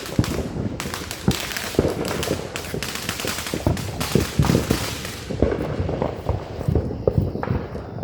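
Fireworks going off in a rapid, irregular string of sharp pops and bangs with a crackling hiss. The pops thin out after about five seconds.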